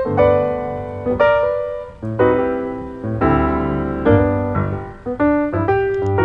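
Piano music: chords struck about once a second, each left to ring and fade before the next.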